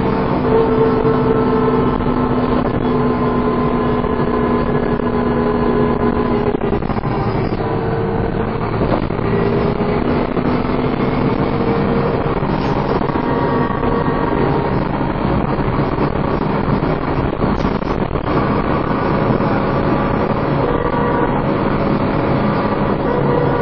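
Dennis Trident 2 double-decker bus driven hard, its drivetrain giving a steady whine of the kind known as 'hoovering' over the engine noise. The whine shifts in pitch a few times as the bus moves through its gears.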